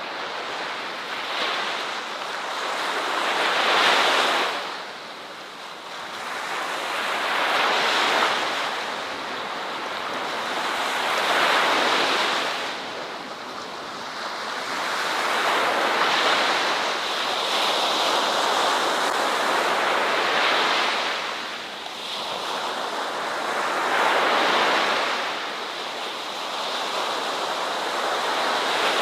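Ocean waves washing onto a beach, the surf swelling and ebbing about every four seconds.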